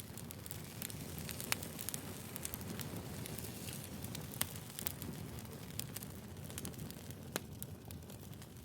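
Wood fire burning: a steady low rumble of flames with frequent irregular crackles and sharp pops from the burning logs.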